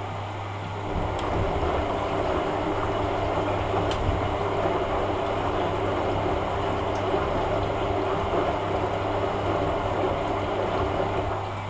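Hoover A3786 Logic Deluxe washing machine in its rinse: the drum motor starts about a second in and turns the drum steadily for about ten seconds, with the load rumbling and knocking inside, then stops just before the end over a steady background hum.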